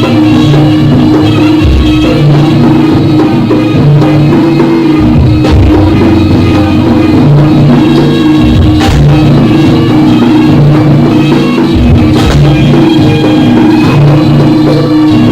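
Live jaranan ensemble music: drums and sustained melodic instruments playing a steady piece, with a sharp crash every few seconds.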